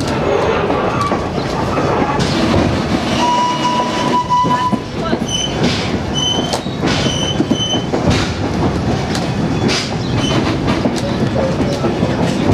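Railway passenger coach rolling along the track: a steady rumble and clatter of wheels on rails, with a thin squeal lasting about a second and a half starting about three seconds in, and a few short, higher squeals around five to seven seconds in.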